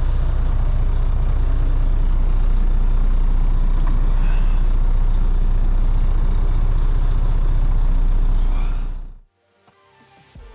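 Semi truck's diesel engine running with a steady, deep low rumble, then fading out abruptly about nine seconds in.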